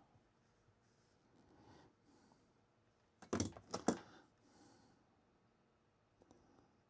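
A quick cluster of four or five sharp clicks and clatter about three seconds in, lasting about a second: small tools or parts handled on a workbench. The rest is quiet.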